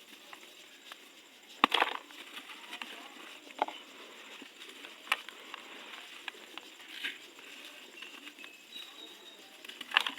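Dry, dusty, crunchy material crumbling: scattered sharp cracks, the loudest about a second and a half in and another near the end, over a faint continuous crackle.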